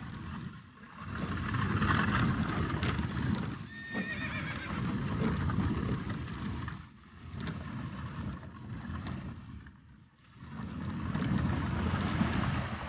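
Horses whinnying over galloping hooves, coming in several loud surges with a brief high whinny about four seconds in.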